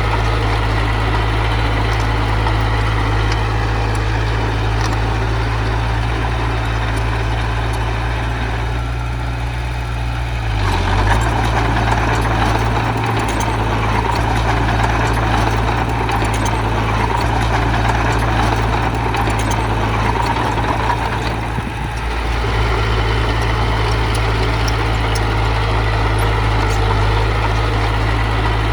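A heavy machine's diesel engine running steadily. It picks up in the middle for about ten seconds, then settles back.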